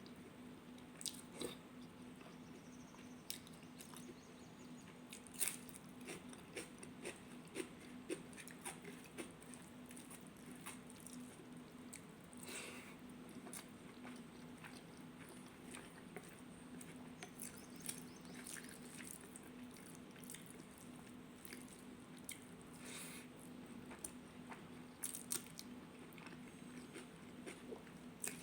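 Close-up eating sounds: soft chewing and wet mouth clicks from eating rajma and rice, with scattered sharp clicks and a steady low hum underneath.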